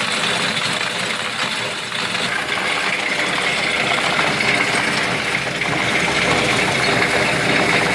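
Farm machinery engine running steadily, with a high mechanical whine that comes up a couple of seconds in.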